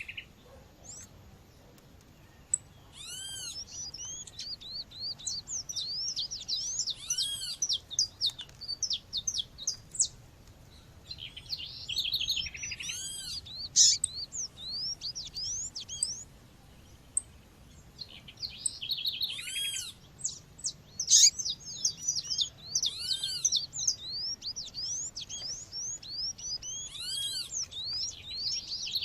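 Female Sporophila seedeater's call, a recording used to stir up males: an arched, ringing note repeated every few seconds over a busy background of many small birds chirping and twittering.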